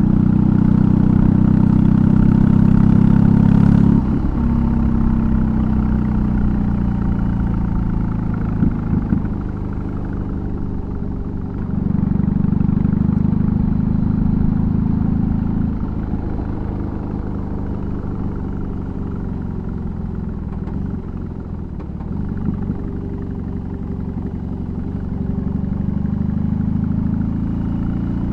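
BMW R18's boxer twin running through a custom exhaust under way: pulling hard at first, then easing off at about four seconds with the note falling. It opens up again around twelve seconds, rolls off with the pitch dropping, and builds once more near the end.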